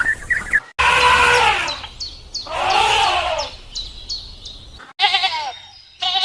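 Bleating calls from livestock: several drawn-out calls, one rising and falling in a smooth arch and a later one wavering, with abrupt cuts between them.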